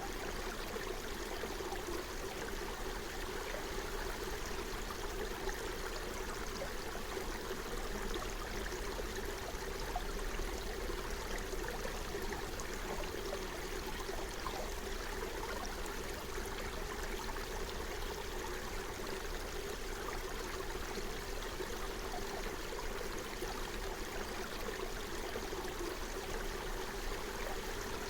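Forest stream flowing over stones, a steady babble and gurgle of running water.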